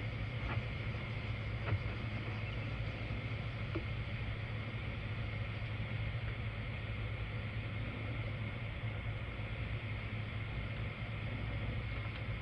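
Steady low mechanical hum, like an idling engine or running machine, with a few faint light clicks in the first few seconds.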